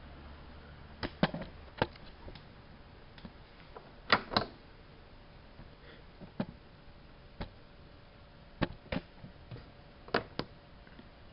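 Alaska WA8200 E front-loading washing machine running, giving a dozen or so sharp, irregular clicks and knocks, several in quick pairs, over a faint steady hum.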